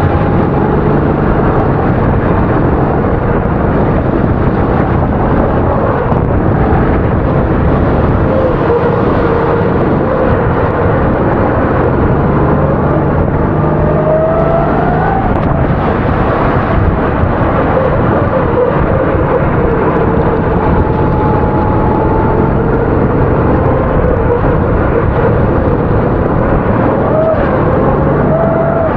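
270 cc racing kart engines running hard through a race, their pitch rising and falling as they rev up and ease off.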